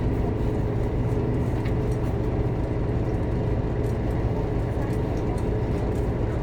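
Scania K230UB diesel bus running steadily under way: an even, low engine drone with road noise and no change in pitch.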